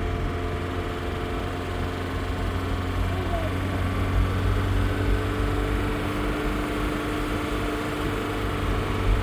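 Steady low engine hum with a few constant tones over it, unchanging throughout.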